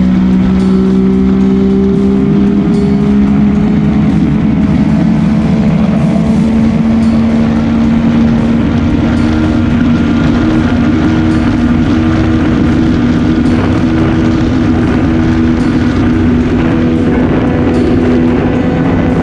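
Motorcycle engine running steadily under way, its pitch rising slowly through the first half as the bike gathers speed, with rushing road and wind noise.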